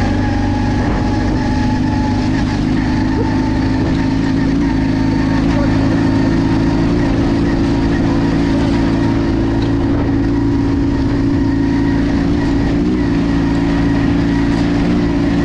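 Off-road vehicle engine running at steady, unchanging revs while under way.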